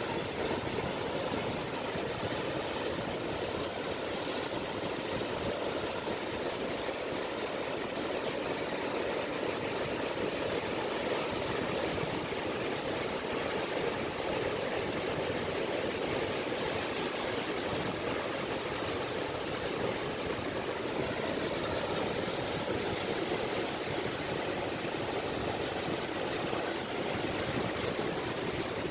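Gentle sea waves lapping on a beach: a steady, even wash of water with no separate breaks standing out.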